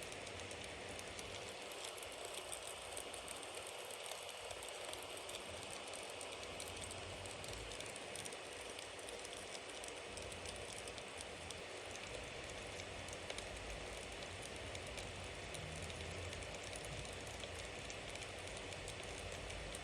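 Bonfire burning with a steady hiss and crackle, many small pops from the burning wood.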